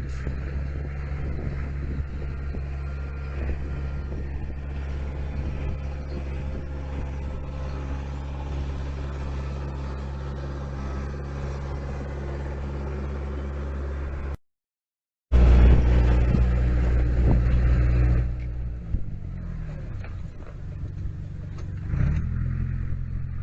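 Dump truck's diesel engine running steadily. After a short dropout partway through it comes back louder, its pitch falls in steps and rises again near the end.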